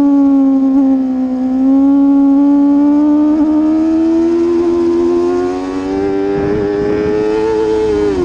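Racing superbike engine held at high revs, its pitch dipping slightly and then climbing steadily over the last few seconds as the bike accelerates.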